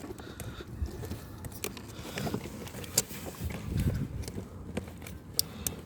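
Plastic clicks and handling noise as the connector latches behind a car door trim panel are pressed and unplugged, with a few sharp clicks, the clearest about three seconds in and another near the end.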